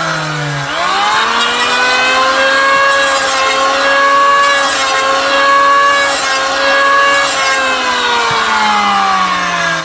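A small high-revving motor, engine or power tool, running hard. Its pitch sags low at the start, jumps back up, holds steady, then slowly drops again over the last couple of seconds, as if it is taking a load.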